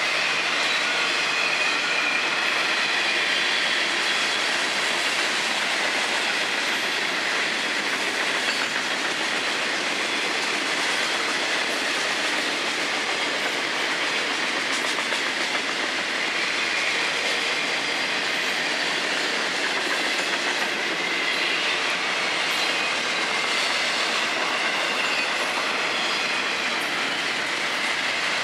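Florida East Coast Railway freight cars rolling steadily past at close range: wheels clattering over the rail joints, with a faint high squeal from the wheels at times.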